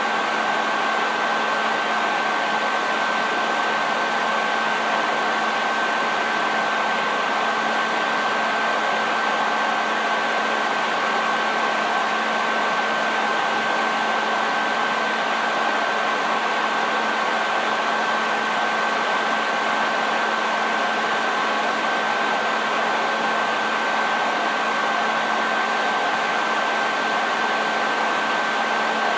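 Electric hair dryer running steadily: an even rush of blown air with a steady whine from the motor and fan.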